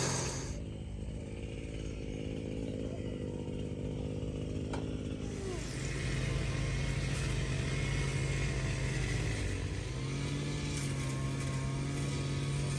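An engine running, its speed stepping up a few times and dropping back briefly near the middle.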